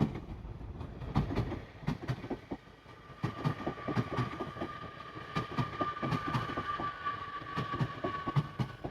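A train in motion, its wheels clattering over the rails with many irregular knocks. A steady high whine joins about three seconds in and fades near the end.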